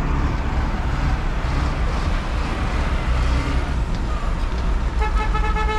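Steady road-traffic noise with a deep rumble. A vehicle horn starts sounding about five seconds in and holds a steady note.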